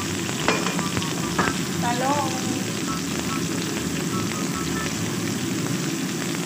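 Long beans sizzling steadily as they fry in hot oil in a non-stick wok, with a few sharp clicks of the spatula against the pan in the first second and a half.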